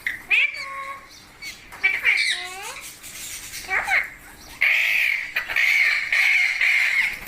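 Pet parrot vocalising: a few short calls that slide in pitch, then a long, harsh, steady screech lasting a couple of seconds that stops abruptly at the end.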